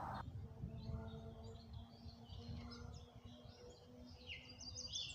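Small birds chirping and calling over a low outdoor rumble, the chirps growing busier near the end.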